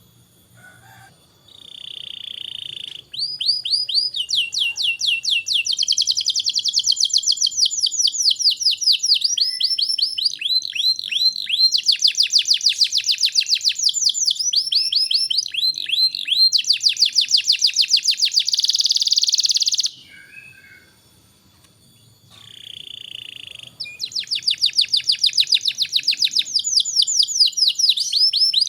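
Domestic canary singing: long runs of fast, evenly repeated high trilled notes, broken by a pause of a few seconds about two-thirds of the way through.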